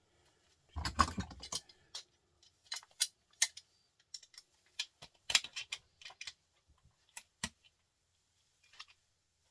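Sharp metal clicks and taps of hand tools and parts while a printer motor is taken apart to get its aluminium housing off, with a short burst of handling knocks about a second in.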